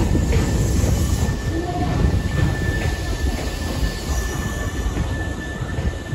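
Nankai electric commuter train rolling along the platform and slowing: a steady low rumble of wheels on rail with a thin, steady high squeal over it, the whole sound easing off towards the end.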